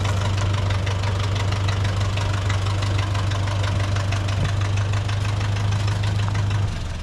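Plymouth industrial locomotive's engine running steadily with a low hum and an even clatter, stopping near the end.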